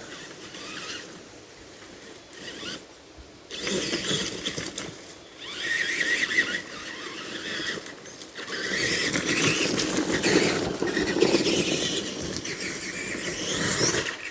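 Tamiya TXT-2 RC monster truck's drivetrain whining, swelling and dropping repeatedly as the throttle is worked, with tyre and chassis noise as it drives over the dirt.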